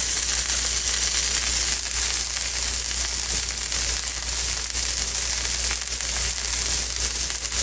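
Ground beef and thinly sliced onions sizzling steadily on a hot, oiled cast iron griddle.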